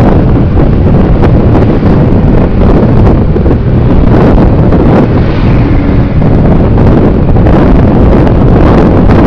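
Loud, steady wind and road noise buffeting the microphone of a moving vehicle.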